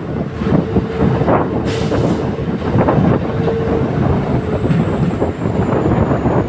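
Passenger train carriage running along the track: steady rumble and rattle with frequent wheel-on-rail knocks, a faint tone that comes and goes, and a thin high whine that slowly falls in pitch.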